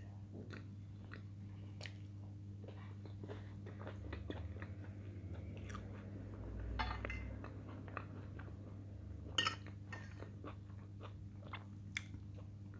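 A person chewing food close to the microphone: soft wet mouth clicks and smacks, with a few louder ones. A steady low hum underneath.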